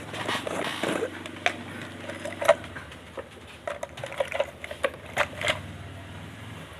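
Irregular clicks and taps of small parts and tools being handled on a workbench, loudest about two and a half seconds in, over a steady low background hum of the room.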